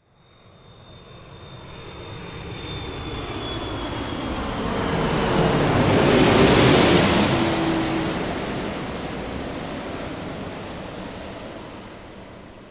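Jet airplane flying past. It swells from nothing to a peak about six seconds in, then fades, and its high engine whine and a lower tone drop in pitch as it passes.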